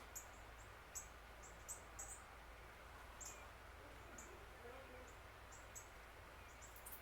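A small bird giving faint, short, very high-pitched chirps, about a dozen scattered irregularly, over a steady outdoor hiss.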